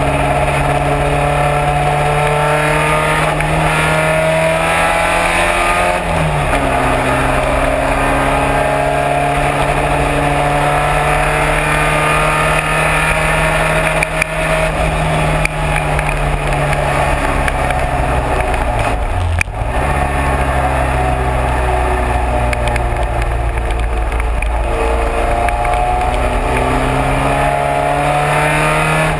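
Race car engine running hard through a lap, its note holding high and slowly climbing between sharp drops in pitch about six seconds in, about nineteen seconds in and near the end, over a steady hiss.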